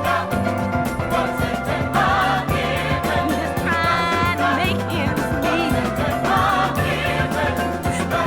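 Gospel choir and band music: a choir singing over a steady bass and rhythm section, with a vocalist's held, wavering notes.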